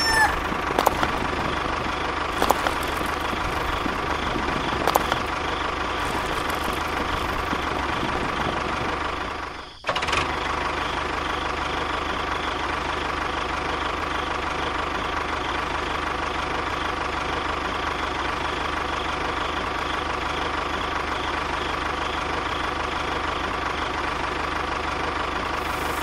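Tractor engine running steadily. It fades and drops out briefly about ten seconds in, then resumes unchanged.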